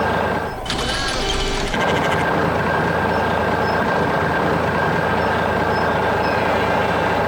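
Heavy construction machine running steadily, a continuous engine-like hum with a brief change in the sound about a second in.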